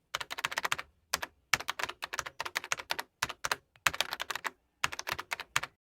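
Rapid keyboard typing clicks in several quick bursts with short pauses between them, which cut off suddenly near the end.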